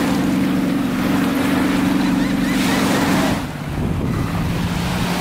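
Wind buffeting the microphone over surf on the beach, with a steady low motor hum underneath whose pitch drops about three and a half seconds in.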